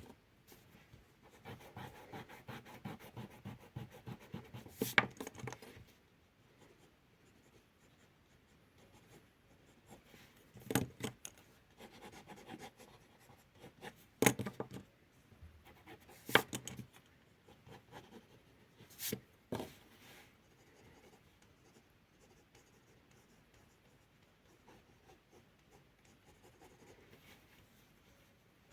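Drawing on paper: a run of quick scratchy strokes for the first several seconds, then scattered short strokes and a few sharp taps, with only faint scratching over the last part.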